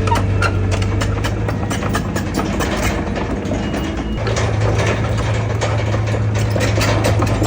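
Komatsu bulldozer's diesel engine running with a steady low drone and a rapid metallic clicking and clanking through it. The drone eases for a couple of seconds midway, then picks up again.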